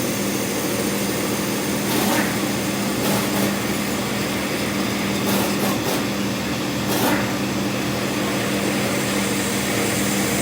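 A motor-driven workshop machine running steadily, with a constant hum under an even hiss and a few brief louder bursts.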